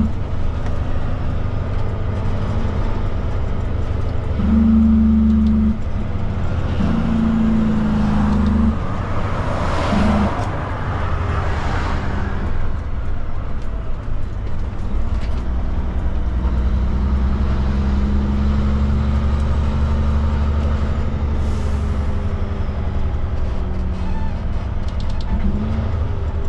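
Heavy truck's diesel engine running as it drives, its drone shifting pitch in steps, with two hisses of air about ten and twelve seconds in.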